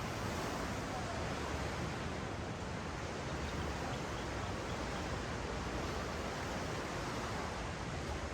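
Ocean surf washing on a sandy beach: a steady, even rush of water.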